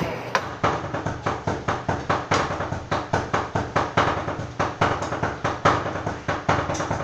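Knife chopping sisig on a chopping board in a fast, steady rhythm of sharp knocks, about four to five a second, played like a drumbeat.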